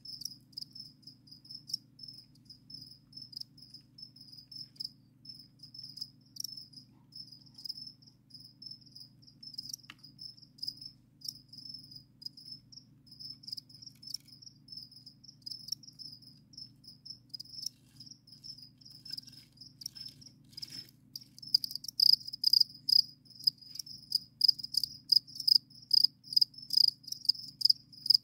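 Crickets chirping: a high, pulsed chirp repeating steadily, a few chirps a second. About three-quarters of the way through, a louder chirping joins in, close by and very regular, over a faint low hum.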